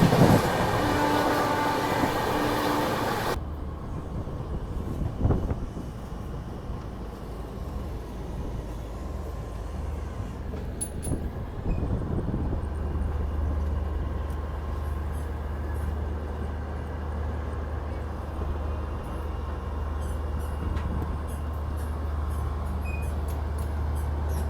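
Passenger train running on the rails, cutting off abruptly about three seconds in to a quieter steady low hum with scattered faint clicks.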